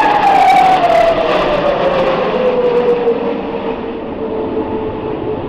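Formation of Hongdu L-15E jet trainers flying past: a loud jet whine drops in pitch over the first three seconds, then holds steady over the rushing jet noise as the aircraft move away and the sound slowly fades.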